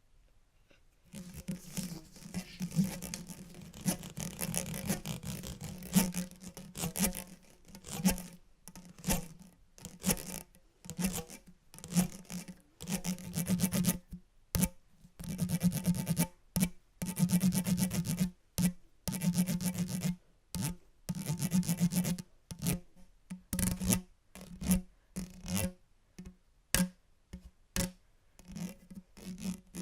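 Irregular bursts of scratching and rubbing, some quick and some drawn out, starting about a second in, each carrying a low humming ring beneath the rasp.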